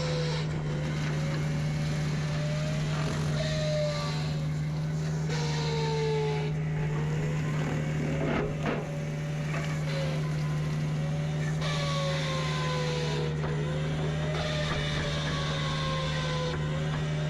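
Forestry mulcher working: a steady engine drone under a hydraulic whine that slides up and down in pitch as the load on the cutter drum changes. There is a single sharp crack about halfway through.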